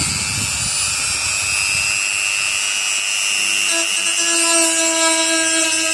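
A small power tool running at steady high speed, used to grind away the old cold-weld (epoxy putty) repair from the cracked door metal. A second, lower steady tone joins about four seconds in.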